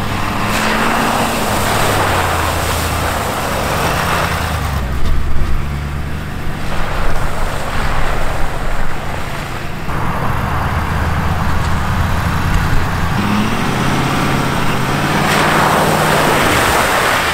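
Lifted pickup truck's engine revving, its pitch rising and falling repeatedly, under a loud rushing noise that swells and fades three times as it drives in the mud.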